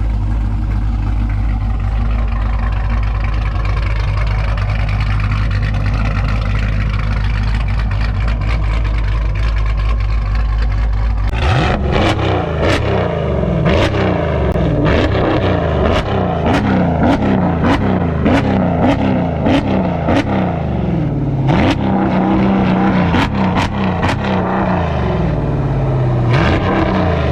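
Cammed Jeep Grand Cherokee SRT8's 392 Hemi V8 idling with a steady low rumble, then, about eleven seconds in, revved over and over, each rev rising and falling, with sharp cracks from the exhaust between revs.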